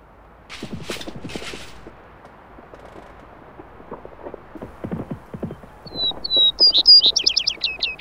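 A songbird singing a quick run of chirps, each falling in pitch, starting about six seconds in; this is the loudest sound. Earlier, about half a second in, come two short hissing rushes with low thumps, and a few soft thumps follow around the middle.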